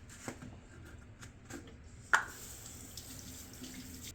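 Light scattered clicks and one sharp knock about two seconds in, followed by a faint steady hiss.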